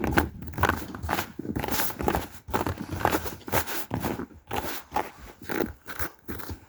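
Footsteps crunching through snow at a walking pace, about two steps a second.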